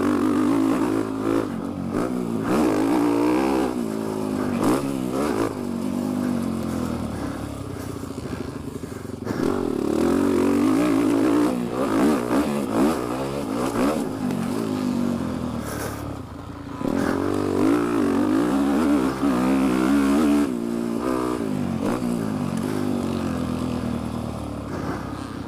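Dirt bike engine, ridden through a lap and heard from a microphone inside the rider's helmet, revving up and down again and again as the throttle opens and closes. The throttle shuts off briefly about nine seconds in and again about sixteen seconds in.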